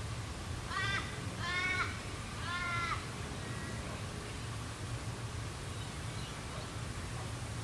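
A crow cawing three times in quick succession, each caw a drawn-out, arching call, over a steady low background hum of the bush.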